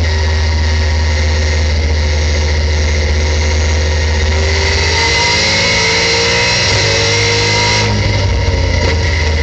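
Race-prepared 2015 Ford Mustang's engine, heard from inside the cabin at speed. It holds a steady high note, then rises in pitch under full throttle from about halfway in, and drops off suddenly near the end as the driver lifts for braking.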